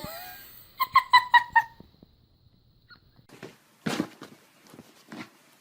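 A dog vocalising: five quick, high-pitched yips about a second in, then several short, rougher sounds in the second half.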